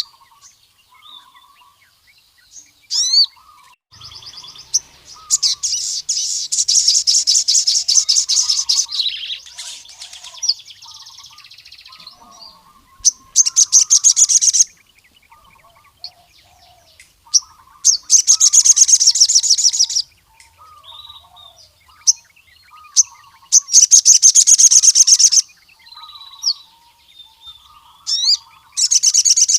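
Male ruby-cheeked sunbird (sogon) singing in full song: five loud, rapid, high trills of one to four seconds each, with sharp rising chirps between them. A faint, lower twittering goes on underneath.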